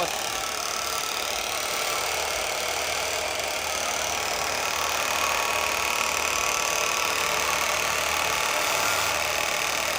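Small 49cc mini-bike (pocket bike) engines running steadily.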